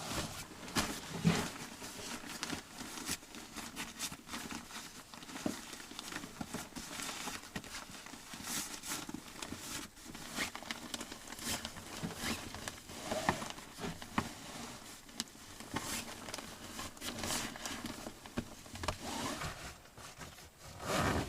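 Irregular rustling and crinkling with many small knocks and clicks, like gear or clothing being handled.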